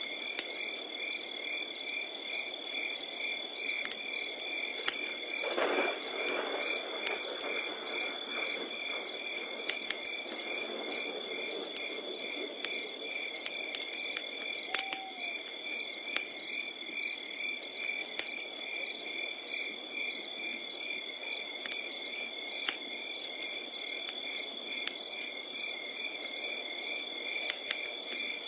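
Crickets chirping in a rapid, even rhythm over a continuous high insect drone, with a wood fire crackling and popping underneath. A brief low animal call sounds once about halfway through.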